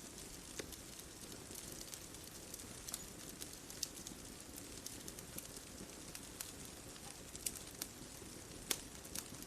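Wood bonfire crackling: scattered sharp pops and snaps over a steady low hiss, one of the louder pops coming near the end.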